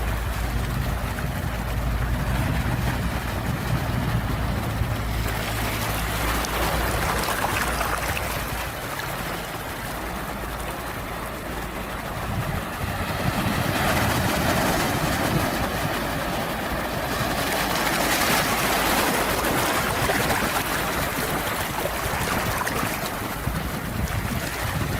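Ocean waves washing in and drawing back, the rush of water swelling and ebbing in slow surges. A low steady rumble sits under the first half and fades out about halfway through.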